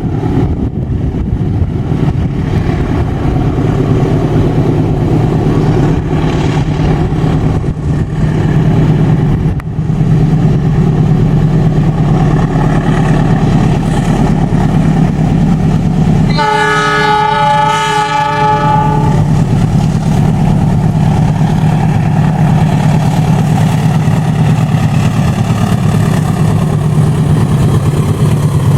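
Diesel locomotive engine rumbling steadily as a train passes. A little past halfway through, the locomotive's air horn sounds once, a chord held for about two and a half seconds.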